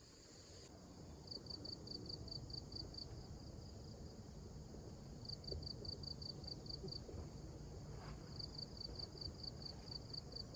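An insect chirping in three runs of quick, even pulses, about seven a second, over a low rumble of handling or rustling noise.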